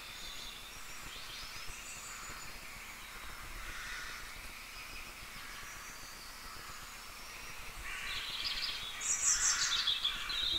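Birds chirping faintly in the background over a steady hiss, with a louder burst of chirping about eight to ten seconds in.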